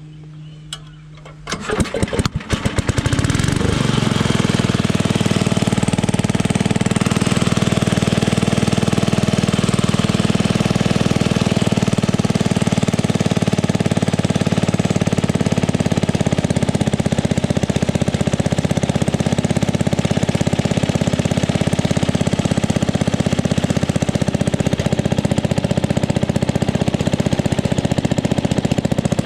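The gasoline engine of a vintage engine-driven welding generator cranks a few strokes, catches about two seconds in, and then runs steadily with an even firing beat.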